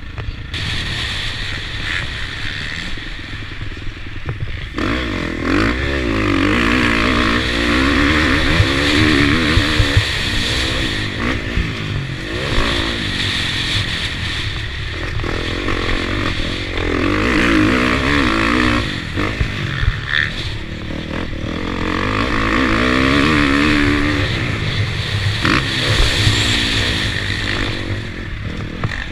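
KTM motocross bike engine pulling hard and backing off in repeated surges, its pitch climbing and dropping about five times, heard close from the rider's camera over a steady low rumble, with a few sharp knocks.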